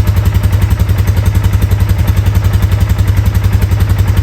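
2022 Polaris Sportsman 450 HO ATV's single-cylinder engine idling with a steady, even putter of about ten beats a second. It is running mint on its newly fitted fuel line.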